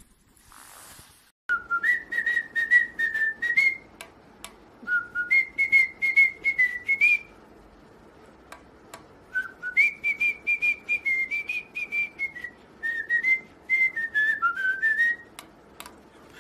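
A parrot whistling a tune in three phrases of short, stepping notes, with small clicks between the notes.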